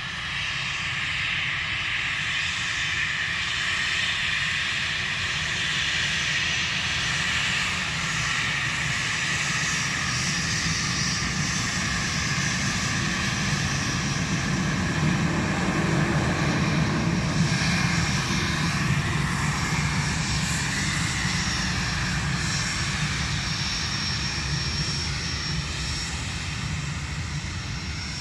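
Jet airliner's engines as it passes the airport: a steady whine with high tones over a low rumble, growing to its loudest a little past halfway, then slowly fading.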